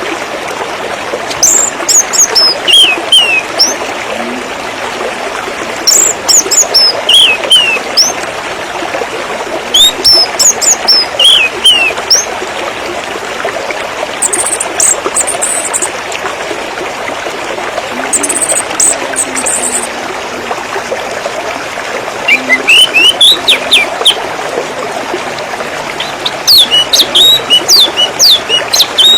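Running water trickling steadily under birds singing. Small birds give phrases of quick, high, falling chirps every few seconds, louder than the water, with two short buzzy trills in the middle.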